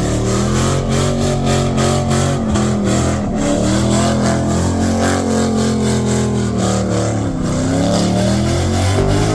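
Car engine revving hard and held at high revs for several seconds, its pitch sagging twice and climbing back, with a noisy hiss over the top, as in a burnout.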